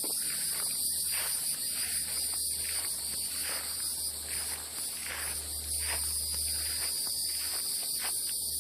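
Steady outdoor insect chorus, a continuous high chirring, with a low steady hum underneath and a few soft, irregular rustling sounds.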